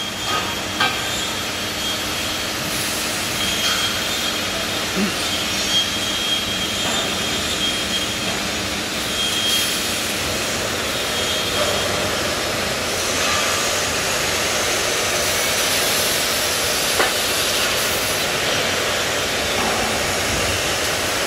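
Fiber laser cutting machine working on structural steel: a steady hiss with a few short clicks and brief faint high tones.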